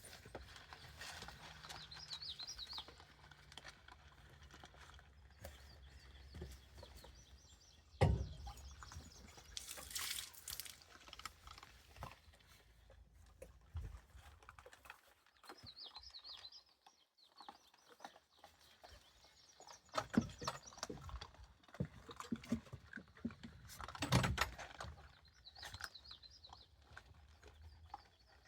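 Faint bird chirps outdoors, a few short trills that come and go, with scattered rustling and a few louder knocks or bumps.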